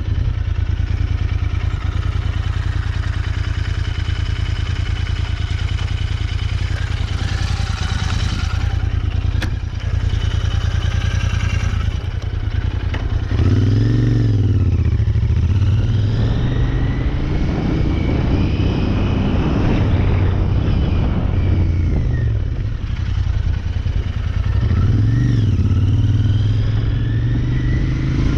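Royal Enfield Interceptor 650's parallel-twin engine running at low speed, with the revs briefly rising and falling twice, about halfway through and again near the end.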